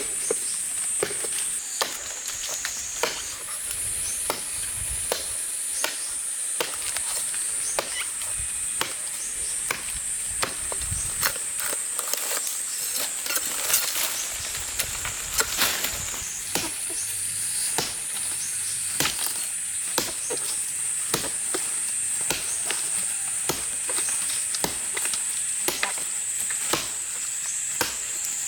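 Repeated chopping strokes with a blade, about one to two sharp strikes a second, over a steady high-pitched insect drone.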